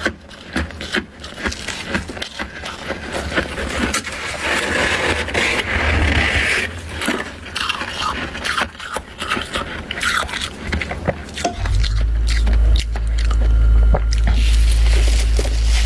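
Thick freezer frost scraped off by hand and crunched, with many sharp crackles and stretches of gritty scraping. A heavy low rumble joins about two-thirds of the way through.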